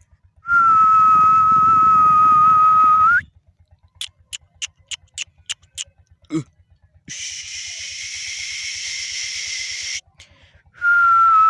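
A loud, steady, high whistle held for nearly three seconds, ending in a slight upward turn; then a run of sharp clicks, a steady hiss for about three seconds, and the same whistle again near the end.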